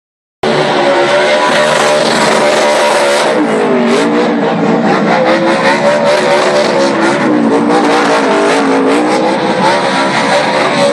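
Pack of NASCAR race trucks' V8 engines running at speed around the oval, several engine notes overlapping and wavering. It cuts in sharply about half a second in, with a brief dip in pitch about four seconds in.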